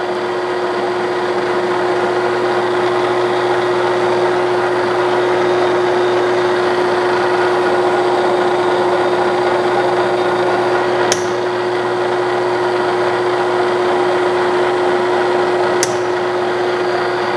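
Clausing Colchester 1340 engine lathe running steadily with a strong, even hum while the tool faces off the end of the workpiece. Two brief sharp clicks come about two thirds of the way in and near the end.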